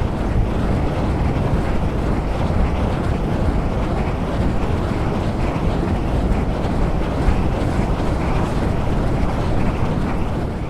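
Wind sound effect: a steady rushing noise, heaviest in the low end.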